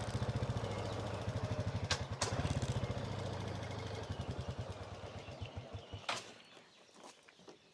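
Motorbike engine running without power, its beats slowing and thinning out until it dies about six seconds in, the bike stalling. A couple of sharp clicks are heard along the way. The rider wonders whether it is something with the fuel.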